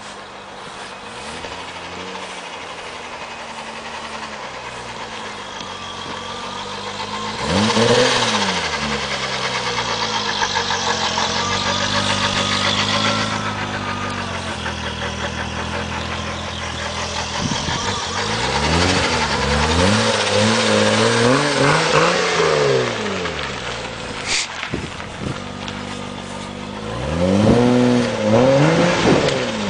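BMW E30 325i's 2.5-litre straight-six revving through a Magnaflow exhaust, which runs dual pipes joined in a Y into one muffler. It idles, then goes to a held rev about a third of the way in, then gives a string of quick blips later on. A thin squeal now and then comes from a drive belt that the owner never lubricated.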